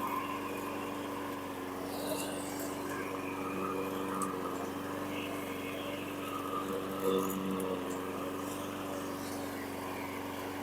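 Husqvarna LC221A walk-behind lawn mower's small engine running steadily, freshly repaired after a carburettor and fuel-system cleaning.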